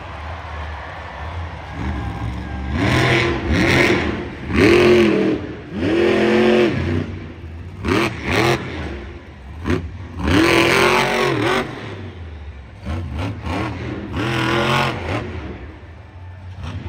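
Monster truck engine revving hard again and again, about eight times, its pitch climbing and dropping with each burst over a steady low rumble, with a few sharp cracks in between.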